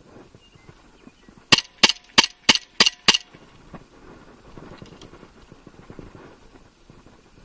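KWC 1911 airsoft pistol firing six shots in quick succession, about three a second, then only faint handling noise.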